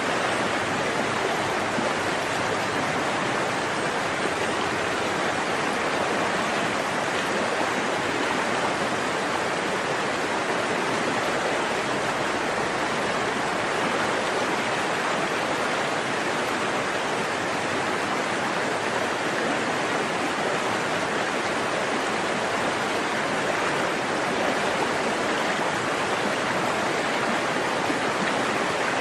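A forest stream (arroyo) running over rocks: a steady, even rush of flowing water.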